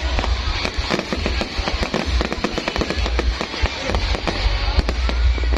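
Fireworks bursting in a dense, overlapping barrage: many sharp bangs and crackles coming several a second without a break.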